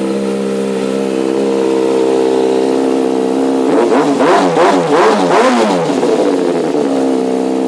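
2009 Kawasaki ZX-6R's inline-four engine running through a Two Brothers Black Series exhaust, idling steadily, then revved with several quick throttle blips about halfway through before settling back to idle.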